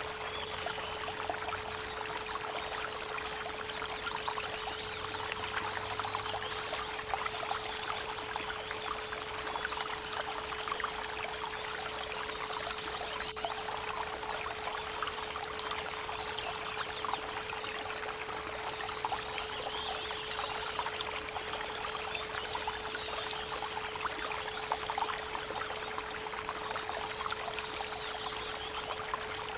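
A steady 432 Hz pure tone held under the rushing of a creek's running water. A short high bird trill comes twice, about nine seconds in and again near the end.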